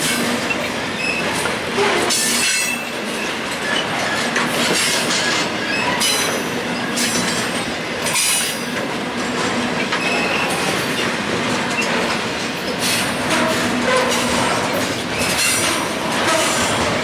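Freight train cars rolling past, with a steady rumble of wheels on rail, repeated clicks at rail joints and some wheel squeal.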